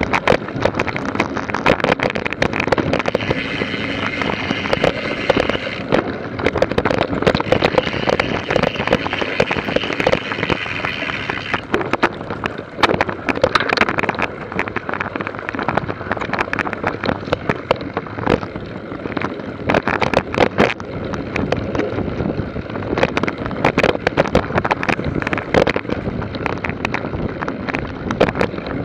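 Wind noise on the microphone mixed with continual rattling clicks and knocks.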